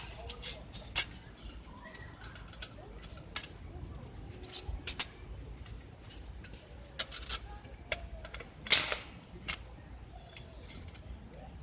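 A run of irregular light clicks and short clatters, like small hard objects being handled and knocked together, with a longer rattling scrape about nine seconds in.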